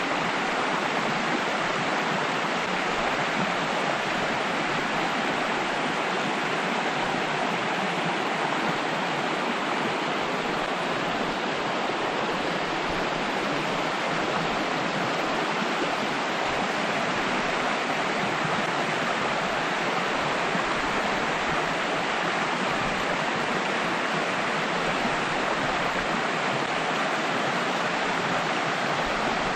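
Rushing water of a stream or small waterfall, a steady unbroken rush with no change in level.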